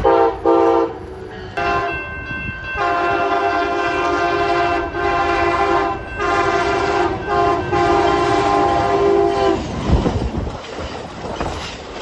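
Nathan K5LA five-chime air horn on a locomotive sounding a string of blasts, some short and some long, the last long one ending about nine and a half seconds in, over the low rumble of the passing train.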